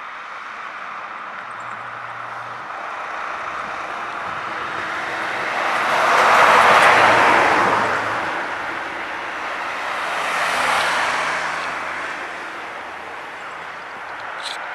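Road traffic passing: a vehicle's noise swells and fades about halfway through, with a smaller pass a few seconds later.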